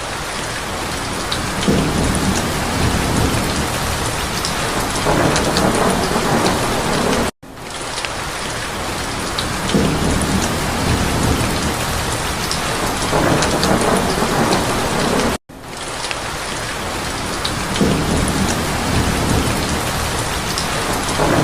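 Steady heavy rain pattering, with low rolling rumbles of thunder swelling every few seconds. The sound cuts out for an instant twice, about seven and fifteen seconds in.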